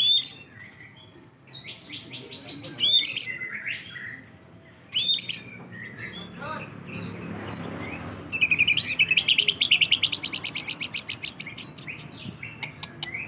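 Young white-rumped shama (murai batu) singing: separate whistled phrases with short pauses, then about eight seconds in a fast run of rapidly repeated notes lasting some three seconds.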